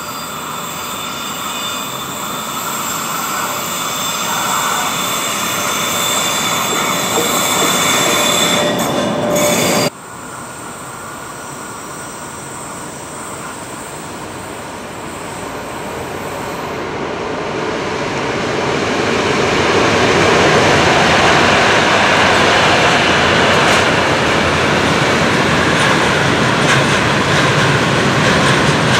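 Freight train running past, a long rake of container wagons rolling by with a steady rumbling rail noise that grows louder as the train approaches and then holds steady at its loudest from about twenty seconds in. Before an abrupt cut about ten seconds in, a louder rail noise with steady high-pitched tones is heard.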